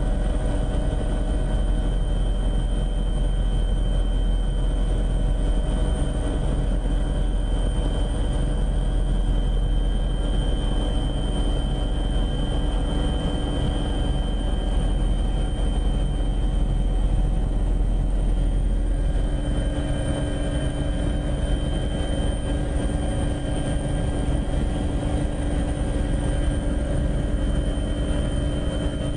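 Steady engine drone of an aircraft heard from on board, a deep rumble under several steady whining tones, the lowest rumble easing slightly about two-thirds of the way through.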